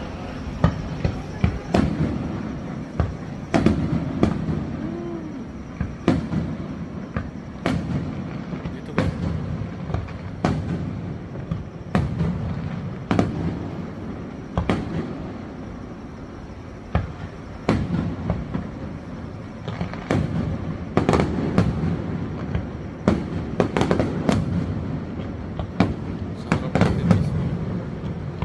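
Aerial fireworks shells bursting in irregular succession: sharp bangs every second or so, sometimes in quick clusters, over a continuous low rumble of echoing booms.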